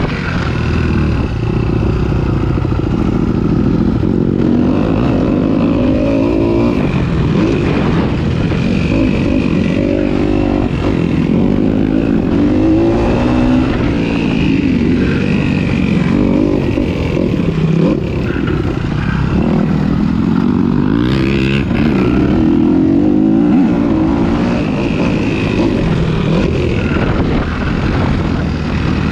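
Motocross bike engine revving up and dropping back again and again as the rider accelerates, shifts and brakes around the track, heard from a camera worn by the rider.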